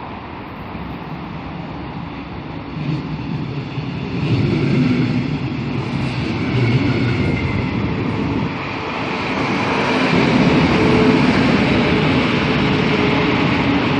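S-Bahn Dresden train of red double-deck coaches with a class 182 electric locomotive rolling past along the platform. Its wheels rumble and rattle on the rails, growing louder about four seconds in and staying loud as the coaches go by.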